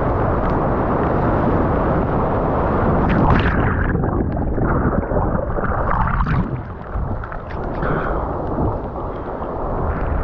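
Strong wind buffeting a GoPro Hero 9's microphone in a loud, low rumble that surges about three seconds in and eases a little after about six seconds, with the noise of surf underneath.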